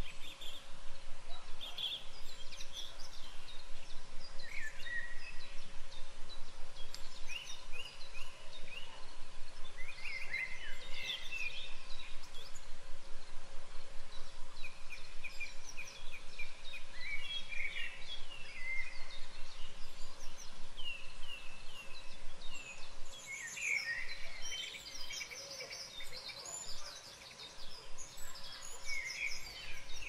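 Several songbirds singing, short chirping and twittering phrases overlapping one another, with a quieter spell near the end.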